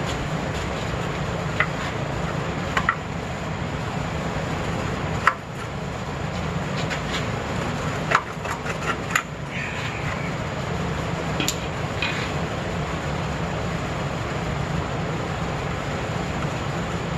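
Scattered sharp metallic clinks and taps of hand tools working on a car's exhaust parts, some with a short ring, over a steady low rumble.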